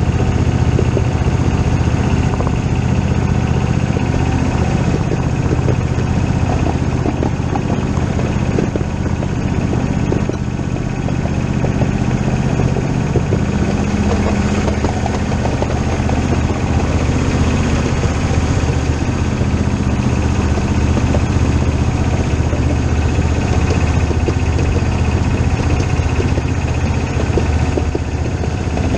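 A steady running engine sound: a low, even hum with fainter clicking over it, without pause or clear rhythm.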